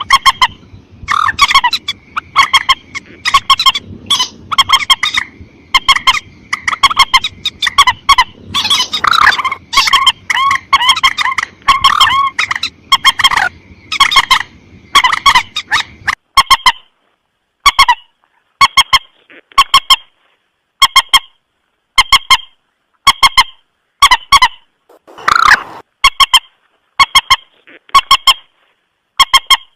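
Common moorhen (mandar batu) lure call: short, harsh, honking calls repeated about once a second, sometimes in quick pairs or runs. A low background hiss under the calls stops about halfway through.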